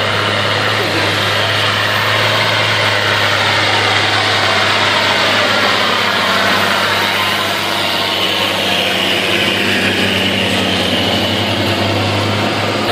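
John Deere 2020 tractor engine idling steadily, with an even low hum and no revving.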